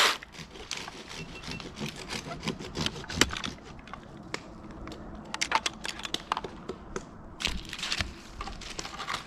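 Scattered sharp cracks and snaps of pine wood and bark, the sharpest about three seconds in and small clusters later on.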